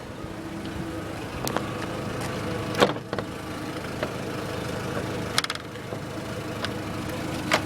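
A 2007 Volkswagen City Golf's 2.0-litre four-cylinder idling steadily, with an exhaust leak, while the hood is opened: several sharp clicks and clunks, the loudest about three seconds in and a quick rattle of clicks past the middle.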